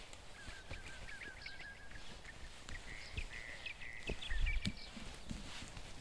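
A small bird singing a fast series of short repeated chirps, several a second, the notes climbing a little in pitch after about two seconds. A soft low thump a little past the middle.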